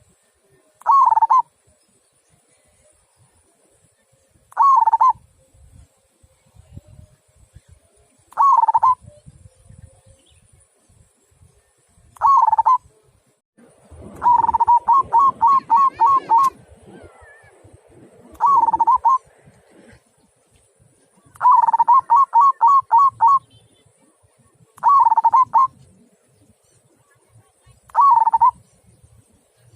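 Local perkutut (zebra dove) cooing with a deep 'kung' voice: short coo phrases repeat about every four seconds, and twice break into a quick run of about six notes.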